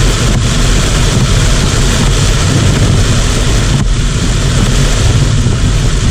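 Heavy typhoon rain pouring down in a dense, loud, steady hiss, with a low rumble of wind buffeting the microphone.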